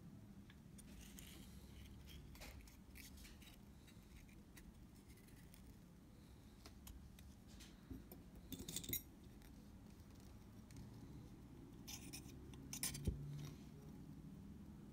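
Faint clicks and scrapes of small hand tools and parts being handled during shutter curtain work on a Leica II D, with two brief louder bursts of scratchy handling about nine and thirteen seconds in.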